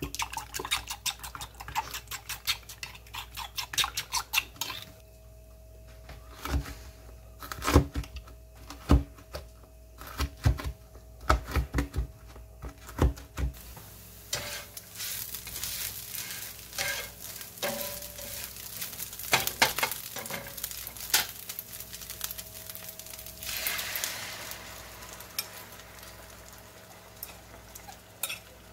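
Eggs being whisked in a bowl, a quick run of utensil clicks against the side with some louder knocks. Then hash browns sizzling in a nonstick frying pan while a spatula scrapes and taps, the hiss swelling in the last few seconds as the beaten eggs go into the hot pan.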